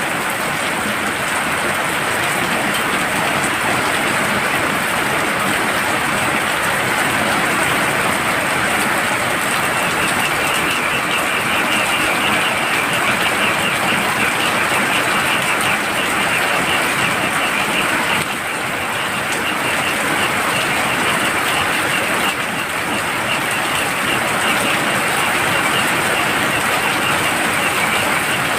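Steady heavy rain, with a chorus of frogs calling in a fast pulsing trill that joins about a third of the way in, breaks off briefly past the middle, and resumes.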